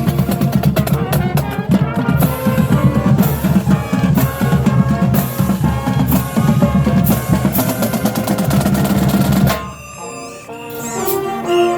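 Marching band playing at full volume, the drumline's snares and bass drums driving under sustained brass chords. About three-quarters of the way through, the full band cuts off together and a much softer, sustained passage follows.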